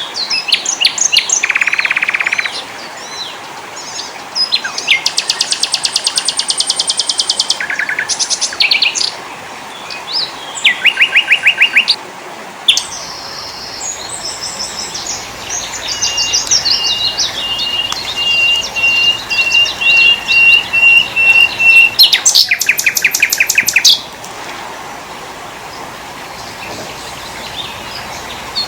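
Several small songbirds singing in turn: fast high trills, chirps and runs of evenly repeated notes, with the background changing abruptly where recordings are spliced together. The singing stops for the last few seconds, leaving a steady hiss.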